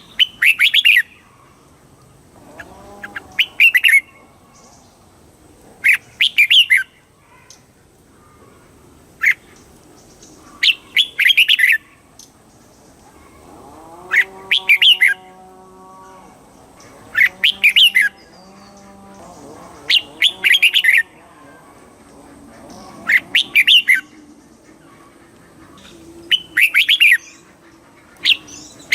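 Red-whiskered bulbul singing short, loud, chattering phrases of about a second each, repeated roughly every three seconds. A fainter, lower call is heard in the background about halfway through.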